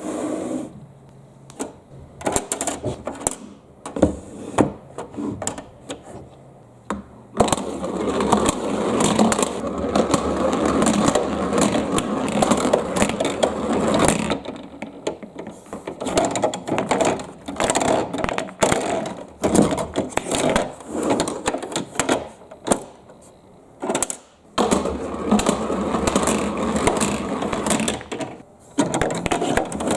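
Marbles rolling and clacking down a marble run, with many sharp clicks as they drop and strike the track. Twice, long stretches of continuous rumbling clatter as many marbles roll together, first from about a quarter of the way in to about halfway, then again near the end.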